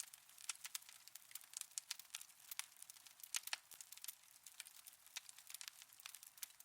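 Wood fire in a fireplace crackling: sharp, irregular pops and snaps, several a second, over a faint hiss.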